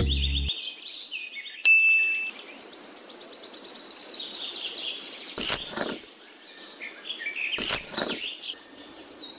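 Birds chirping and whistling: runs of quick falling chirps, a short held whistle, and a fast high trill about halfway through. Two brief low thumps come later on.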